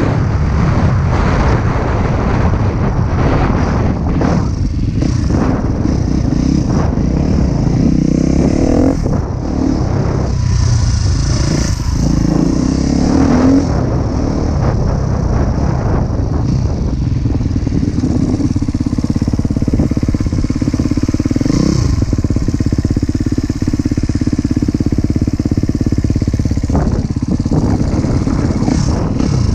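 Husqvarna TC 250 motocross bike's engine running under load as it is ridden, the revs rising and falling repeatedly through the first half and holding steadier in the second half.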